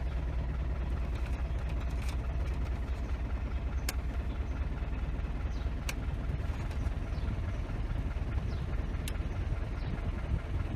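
Isuzu D-Max engine idling steadily with the air conditioning switched on, with a few sharp clicks. The AC gives no cooling because the compressor is not working.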